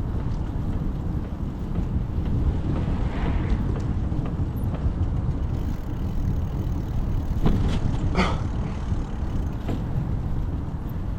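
Steady low rumble of wind and road noise on a cycling camera's microphone while riding, with a couple of brief rattles about seven and eight seconds in.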